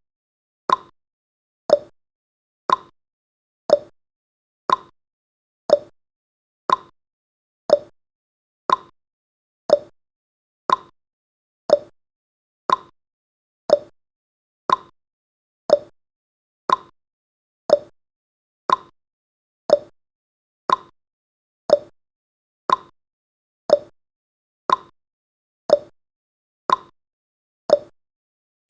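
Countdown timer's ticking sound effect: one short, clock-like tick every second, evenly spaced.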